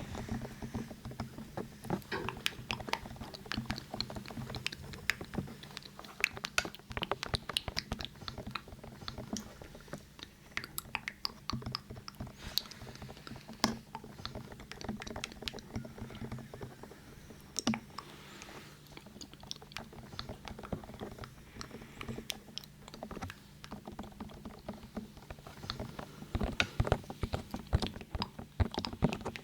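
Rapid, irregular light tapping and fingertip scratching close to a 3Dio binaural microphone, with a faint steady low hum underneath.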